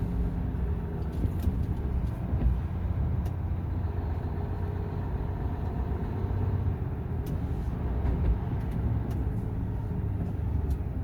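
Truck engine running steadily under way, a constant low drone, with a few faint sharp ticks scattered through it.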